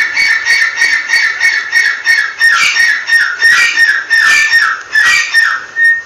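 Teetar (francolin) calling: a fast run of short repeated notes, about four a second, turning into louder downward-slurred notes about two a second, stopping suddenly near the end.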